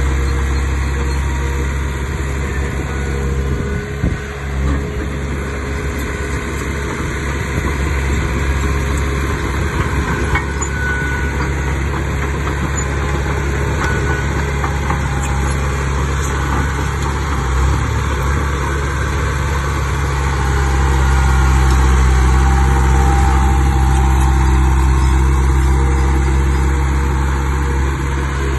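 Heavy diesel earthmoving machinery running steadily with a low engine drone, growing louder for a few seconds a little past two-thirds of the way through.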